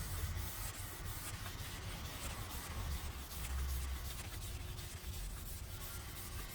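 Green scouring side of a dish sponge rubbing in straight strokes along the brushed grain of a stainless-steel fireplace lid, a steady rubbing as it scrubs off the yellowed film burnt onto the steel by heat.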